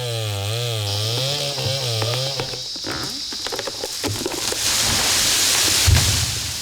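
Chainsaw running under load, its engine pitch wavering up and down as it cuts. From about halfway in comes a loud rushing noise, with a low thud a little before the end.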